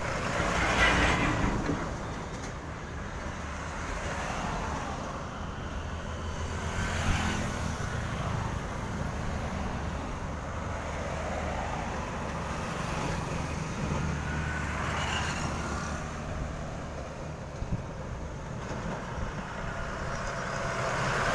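Road traffic of heavy trucks: diesel engines running with a steady low hum, swelling several times as trucks pass close by.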